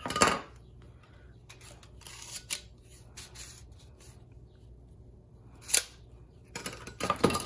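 Handling and unpacking the parts of a metal pooper scooper: a sharp snap just after the start, light clicks and rustling, another sharp click near the end, then busier clattering as parts are moved about.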